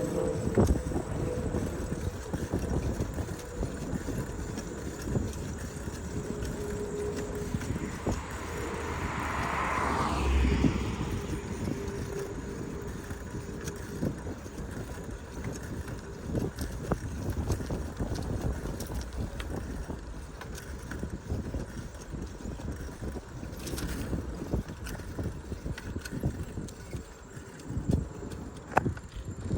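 Wind on the microphone and road rumble from a bicycle riding along a road, with scattered rattles and clicks and a swell of noise about ten seconds in.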